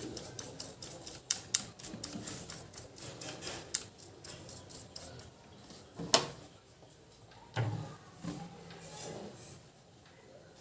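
Quick light clicks and taps of hand tools on an emergency light's circuit board during soldering, several a second at first, then thinning out, with one sharper click about six seconds in.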